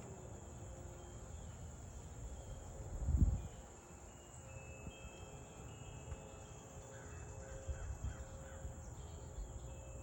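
Birds calling over a steady high-pitched insect drone, with a run of short calls in the last few seconds. A low rumbling thump about three seconds in is the loudest sound.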